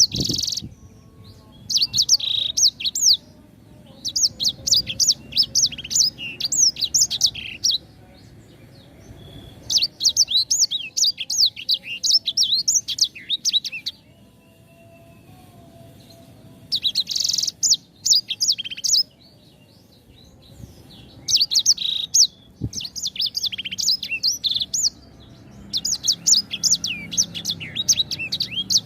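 A sanger songbird singing in bursts of rapid, high, sweeping chirps a few seconds long, separated by short pauses.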